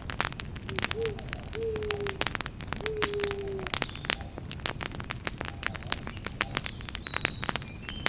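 Campfire crackling and popping steadily, with an owl hooting three times in the first half, each hoot a short note that falls slightly in pitch.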